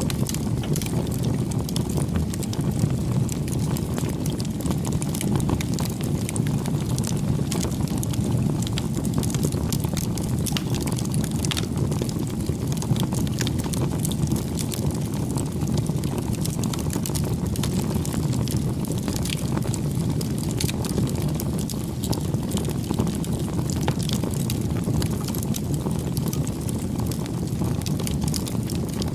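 Campfire burning: a steady low rush of flames with frequent small crackles and pops from the burning wood, scattered irregularly.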